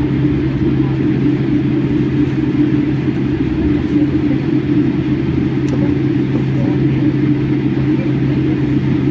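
Jet airliner cabin noise in flight: a steady rumble of engines and airflow with a constant low hum.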